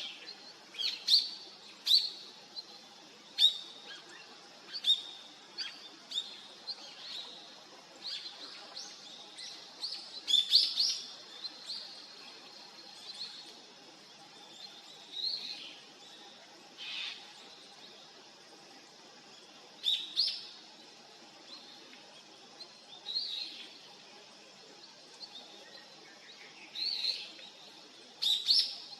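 Siberian long-tailed rosefinches giving short, high calls. The calls come irregularly, often two or three close together, with gaps of a few seconds between bouts.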